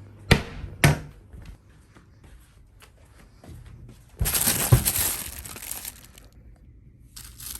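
Packaging crinkling and rustling as items are handled and set down, with two sharp knocks in the first second and a louder stretch of rustling with a thud about four seconds in.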